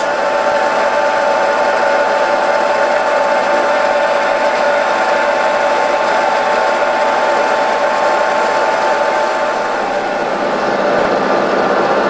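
A train running close by: diesel engines and wheels give a steady, loud mechanical sound with a constant high whine.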